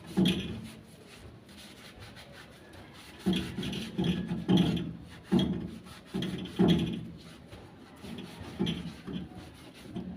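A series of about nine rough rubbing strokes worked by hand on a stock pot during its cleaning and repair, most of them bunched in the middle with short pauses between.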